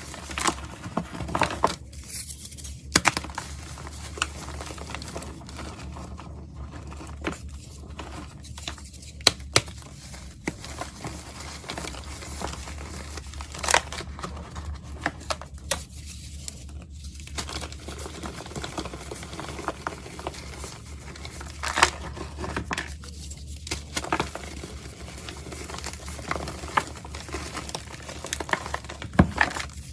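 Dry pressed powder being crushed and crumbled: irregular crisp crunches and crackles, a few sharper and louder than the rest, over a steady low hum.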